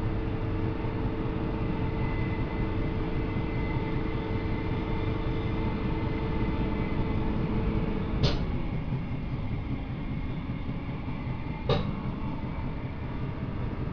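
Electric suburban train heard from inside the carriage, running along the track with a steady rumble and motor hum. About eight seconds in, the hum drops away at a sharp clunk, and a second clunk follows about three and a half seconds later.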